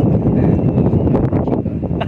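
Strong wind buffeting the microphone, a heavy, rumbling rush.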